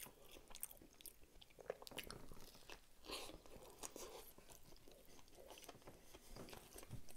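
Faint, close-miked chewing of a mouthful of Double Quarter Pounder burger: soft, wet mouth sounds with scattered small clicks.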